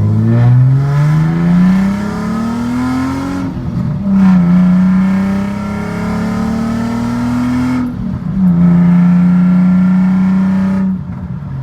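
Nissan 300ZX's VG V6 accelerating hard through the gears on an exhaust with two resonators and a budget muffler. The revs climb, drop at an upshift about three and a half seconds in, climb again, and drop at a second upshift about eight seconds in. They then hold steady before the throttle eases off near the end.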